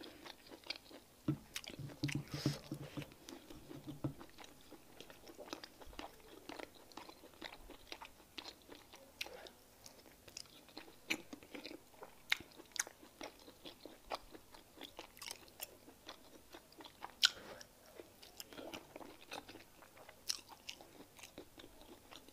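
Close-miked chewing and wet mouth clicks of a person eating fufu with peanut soup by hand, the clicks coming at uneven intervals, the sharpest about seventeen seconds in.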